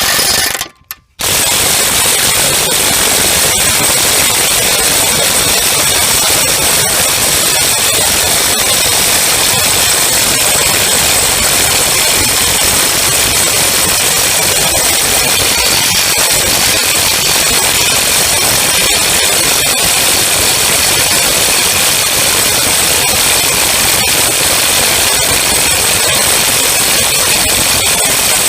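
DeWalt 20V XR DCF894H cordless impact wrench hammering continuously on a fastener. It stops briefly about a second in, then hammers without a break for the rest of the stretch.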